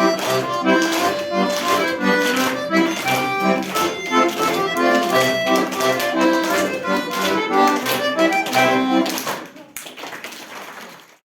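Accordion playing a rhythmic tune over a bass-and-chord accompaniment. It stops about nine seconds in and the sound dies away over a second or two.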